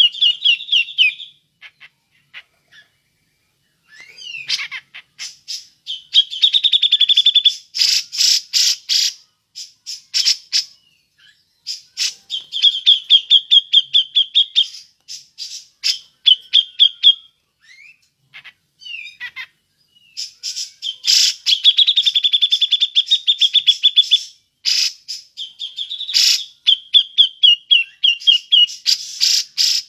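Grey-cheeked bulbul (cucak jenggot) giving sharp 'ngepik' calls: bouts of fast, repeated chattering notes, each bout lasting a second or two, broken by short pauses.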